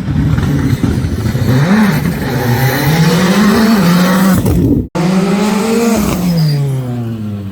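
Rally car engine at high revs, its pitch climbing and dropping through gear changes. After a short break about five seconds in, another pass where the engine note falls steadily as the car goes by and away.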